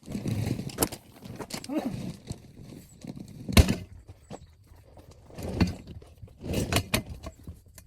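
A run of sharp knocks and clatters from objects being handled, loudest about three and a half seconds in, with rustling and scraping between the strikes.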